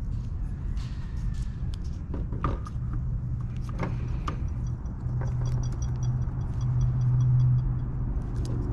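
Light clicks and taps of small carburetor parts and a hose fitting being handled and pushed into place, over a steady low hum.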